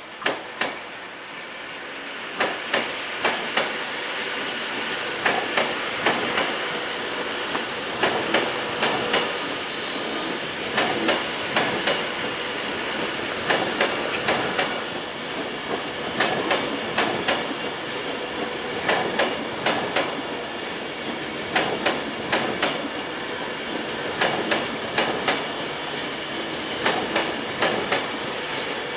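A train passing on the track, its wheels clicking over rail joints and points in quick pairs and groups over a steady rolling rumble. The rumble swells over the first few seconds.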